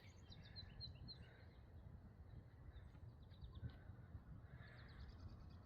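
Faint bird chirping: a few groups of short, rapid high notes over a low wind rumble.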